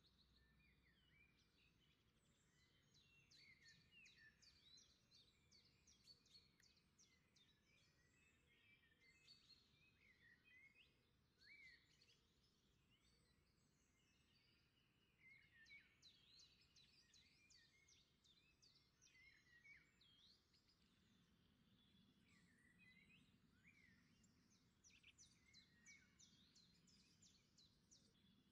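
Faint birdsong: small birds chirping and trilling in quick, repeated notes throughout, over a very low background hum.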